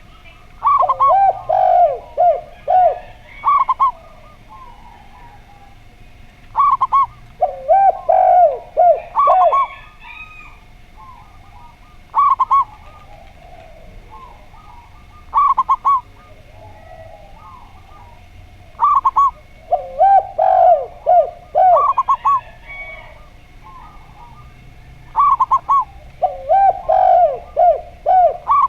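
Zebra dove and spotted dove cooing in turn. Phrases of short, rhythmic coos come every few seconds: a longer, lower run of several coos appears four times, with higher paired or tripled notes between them.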